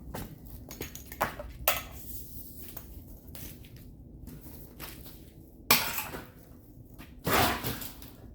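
Metal tools and parts clanking and knocking: a few light knocks, one sharp clank with a short ring a bit past halfway, and a longer metallic clatter near the end.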